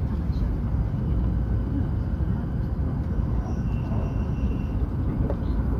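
Steady low rumble of a Hokuriku Shinkansen train running, heard from inside the passenger cabin, with a faint high whine about halfway through.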